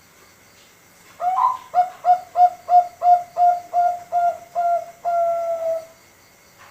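Male Bangkok-strain zebra dove (perkutut), five months old, singing one song phrase: a quick run of about a dozen short coos, about three a second, ending on a longer drawn-out note.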